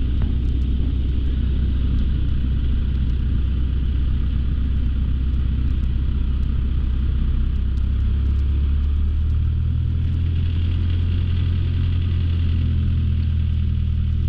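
Light aircraft's piston engine running steadily at low power while taxiing. About nine seconds in, the engine note steps up slightly and holds there as power is added.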